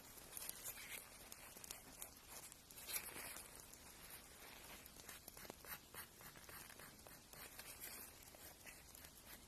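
Fingernail being filed down in short, irregular scratchy strokes, faint and close.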